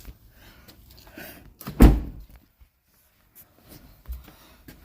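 A pickup truck door slamming shut with a heavy thunk about two seconds in, followed by a softer thump near the end.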